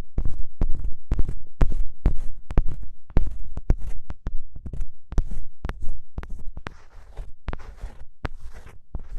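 An ear pick scraping and scratching hard against a microphone's ear, close up: irregular strokes several a second, each a scratchy click with a low rumble. From about two-thirds of the way through, the strokes turn quieter and more hissy.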